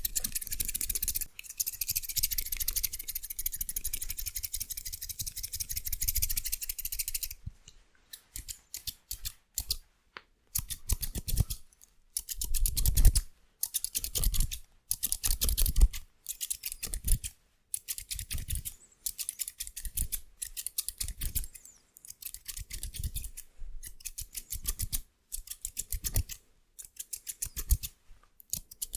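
Haircut scissors snipping very fast and without a break for the first seven seconds or so. After that the snips come in quick bursts, roughly one a second, with short pauses between.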